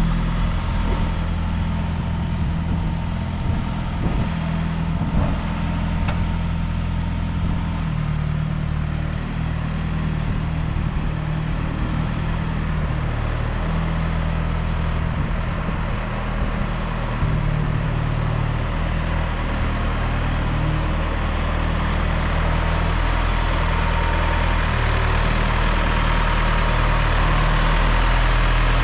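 A John Deere 2030 farm tractor's engine running steadily, getting louder near the end.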